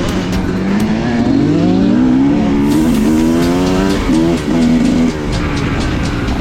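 Dirt bike engine revving hard, its pitch climbing in steps as the throttle is worked, with two brief dips in power in the second half.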